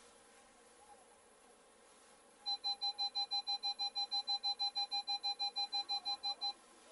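Rapid electronic beeping, about seven short beeps a second, starting about two and a half seconds in and stopping after about four seconds.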